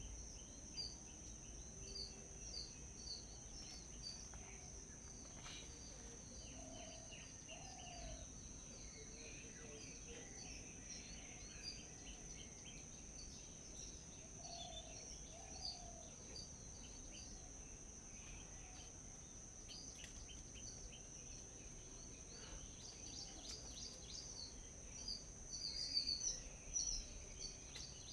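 Small birds chirping and twittering in short, scattered calls, with a few lower call notes, over a steady high-pitched background whine. A burst of louder chirps comes near the end.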